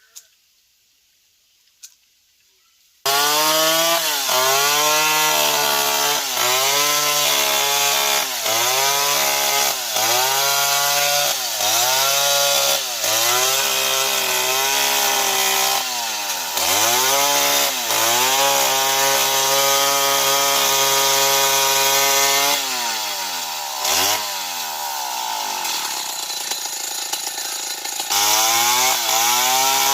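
Old Stihl 070 two-stroke chainsaw running at high revs and cutting into wood, its engine speed dipping and recovering about every second and a half as the chain bites. Its pitch sags and stays lower for a few seconds near the end, then picks up again. Before the saw starts abruptly about three seconds in, there is near silence with two faint clicks.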